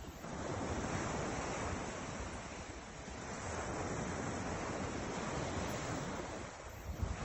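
Ocean surf breaking and washing ashore in long swells of noise, rising about a third of a second in, easing, and surging again midway, with some wind.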